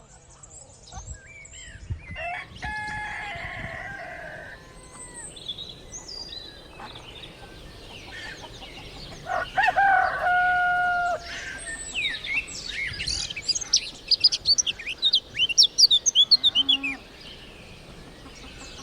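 A rooster crowing twice, each crow a long held call, the second louder. Between the crows and for several seconds after the second, small birds chirp quickly and repeatedly.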